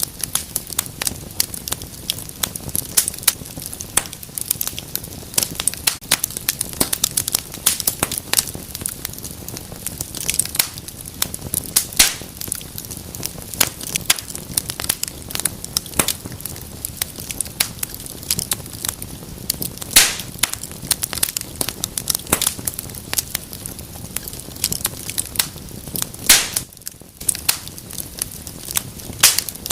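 Wood fire crackling in a fireplace: a dense, irregular run of sharp pops and snaps over a steady low hiss, with a few louder pops now and then.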